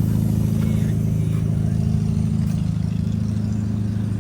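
A car engine running steadily at low revs, an even low hum with no revving.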